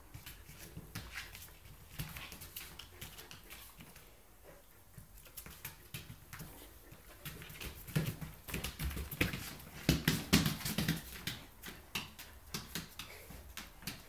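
Chow chow and Samoyed dogs play-fighting: scuffling, with quick clicks like claws on a hard floor, getting louder and busier for a few seconds past the middle.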